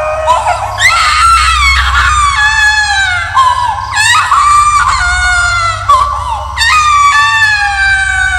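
Baby-crying horror sound effect: three long high-pitched wails, each sliding down in pitch, starting about one, four and six and a half seconds in, over a steady low hum.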